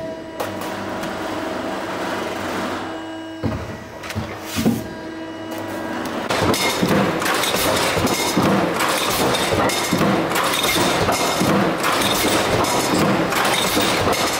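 Metalworking machinery in a factory hall: a steady hum with a few separate clanks, then from about six seconds in a dense, fast clatter of metal knocks.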